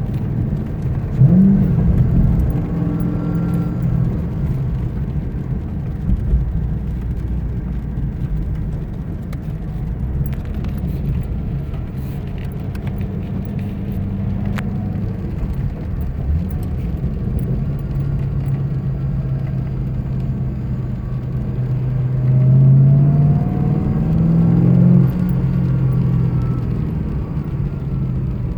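2010 Ford Mustang GT's 4.6-litre V8 idling, blipped briefly about a second in and revved again near the end, with a faint whine that rises and falls with engine speed: the whine of a failing serpentine-belt idler pulley.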